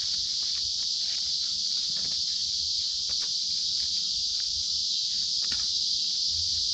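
A steady, high-pitched chorus of crickets, unbroken throughout, with a few faint light clicks.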